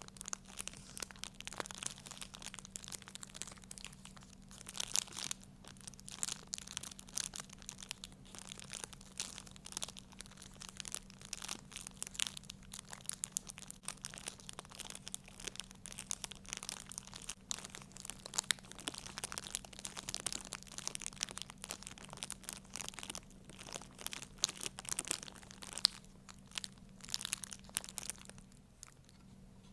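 Crinkly material being handled and scrunched: a dense, irregular run of small crackles that stops shortly before the end.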